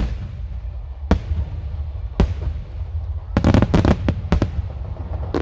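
Aerial firework shells bursting: three single booms about a second apart, then a rapid volley of several bangs and crackles about three and a half seconds in.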